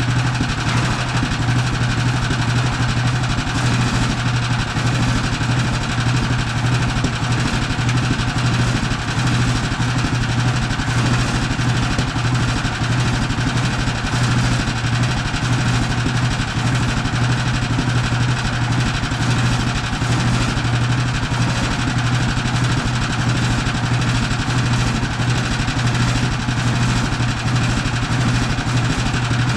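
Portable bandsaw sawmill's gas engine running steadily at an even speed, with a strong low hum.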